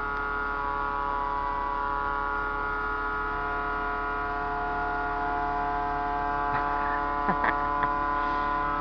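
A steady electrical hum made of several fixed tones, with a few short clicks about seven to eight seconds in.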